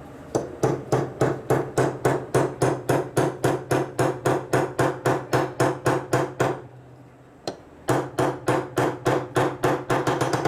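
Metal being struck repeatedly with a hammer, a fast, even run of ringing blows at about four a second. It breaks off briefly past the middle, then resumes.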